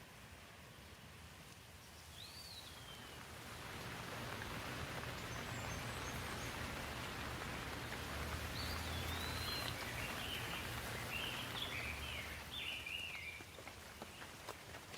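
Steady rainfall that swells over the first few seconds and eases again near the end, with birds chirping through it, most often in the second half.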